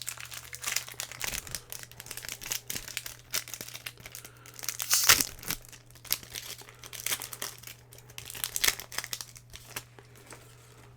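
A Pokémon booster pack's foil wrapper crinkling and being torn open, a run of crackles that is loudest about five seconds in.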